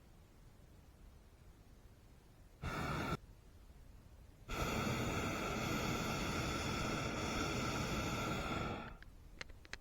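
Hot air balloon's propane burner firing: a short blast about two and a half seconds in, then a longer blast of about four seconds that cuts off near the end.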